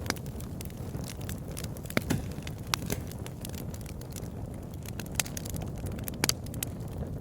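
Campfire burning with a steady low rumble and irregular crackles and pops, a few of them sharper and louder.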